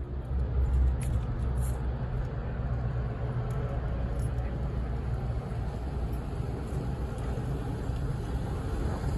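Car engine running, a steady low rumble with a few faint clicks about a second in.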